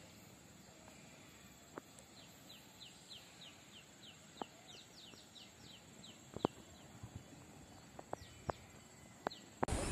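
A bird calling in a quick run of short, high, falling notes, about three a second, over quiet countryside ambience, with a few faint scattered clicks. It cuts to a sudden burst of louder noise at the very end.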